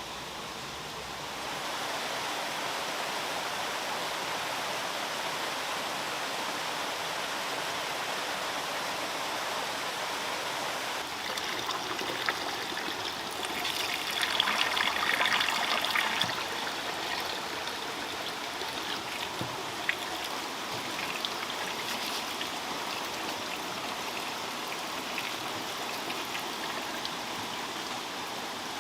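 Steady running water, growing louder for a couple of seconds midway, with a few scattered clicks or splashes.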